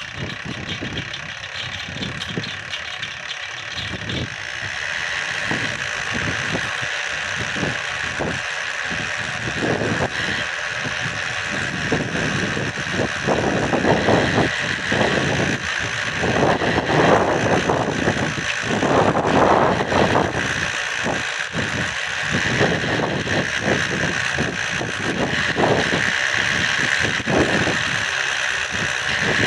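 Small model magnetic-gravity motor wheel spinning: a steady high whine with an uneven clattering rattle underneath, the rattle growing louder about a third of the way in.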